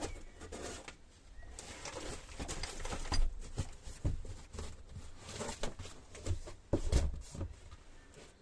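Irregular scuffs, knocks and low thumps from hands moving a load of engine parts and their packing. The heaviest thumps come about three seconds in and again near seven seconds.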